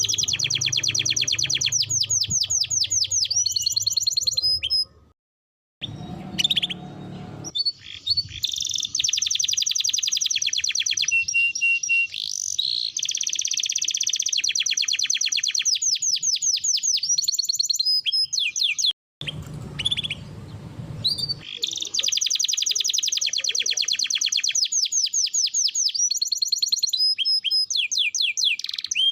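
Domestic canary singing long rolling trills of fast, evenly repeated high notes, changing from one trill to the next. The song breaks off in two short, sudden gaps about five and nineteen seconds in.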